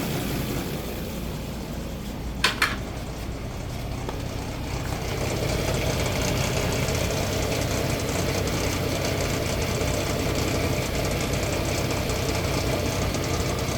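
2006 Nissan Xterra's 4.0-litre V6 idling hot at low rpm with a knock from the bottom end, the noise the owner hears only when the engine is hot at about 750 rpm. Two sharp clicks a couple of seconds in, and the engine sound grows louder about five seconds in.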